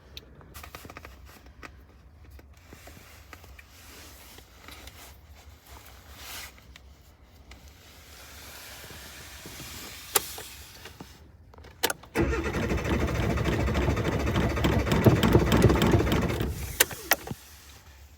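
An old car's engine being cranked by the starter in a hard-start attempt. A couple of sharp clicks come first, then the cranking starts suddenly about twelve seconds in, grows louder, and stops after about five seconds without the engine running on.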